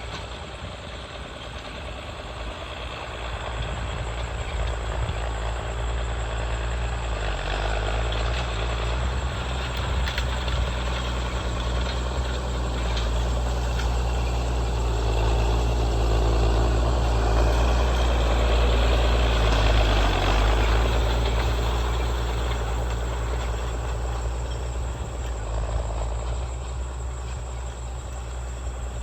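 Tractor engine running steadily, growing louder toward the middle and then fading again.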